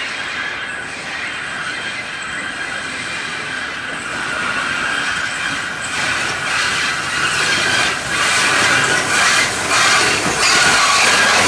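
Narrow-gauge train approaching and growing louder, its wheels squealing with a high ringing over the rails, with sharp clicks in the second half.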